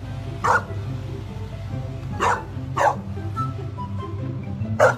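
A dog barking: four short, sharp barks, two of them close together in the middle, over steady background music.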